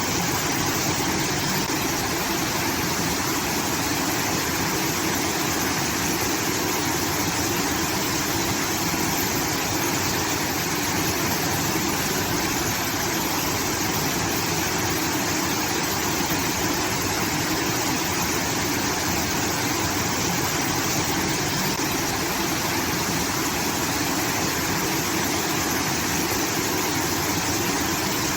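Water from a rice-field irrigation outlet pouring and rushing steadily, like a small waterfall.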